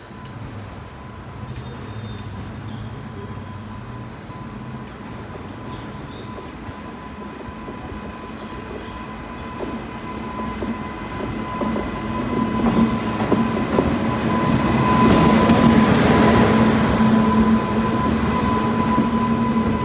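WAG-9HC electric freight locomotive hauling a long container train, with a steady electric hum and a higher steady tone over rumbling wheel noise. It grows louder over the first fifteen seconds or so, then eases slightly.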